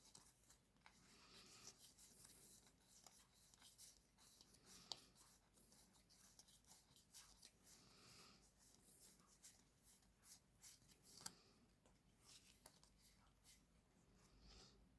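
Near silence with faint rustles and soft ticks of trading cards being handled, a slightly sharper tick about five seconds in and another about eleven seconds in.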